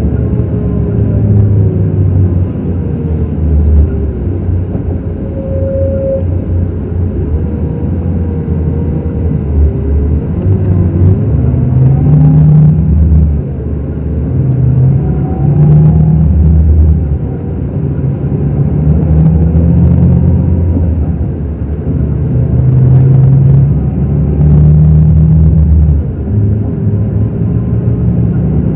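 Scania K360 coach's diesel engine running under way, a steady low rumble whose pitch and loudness shift every few seconds.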